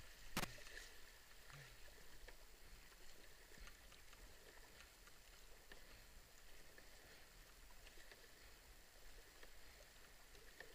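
Faint, steady rush of river water around a canoe running a wave train, with small scattered ticks. A single sharp knock comes about half a second in.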